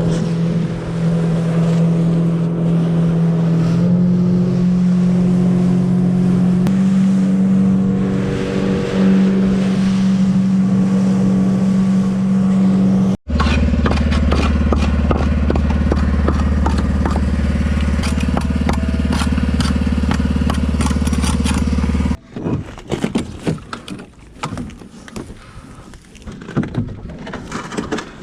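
Small fishing boat's engine running steadily, its pitch stepping up a few times as the throttle changes, then, after an abrupt break, running on with a deeper tone. Near the end the engine gives way to gusty wind and water noise with scattered knocks.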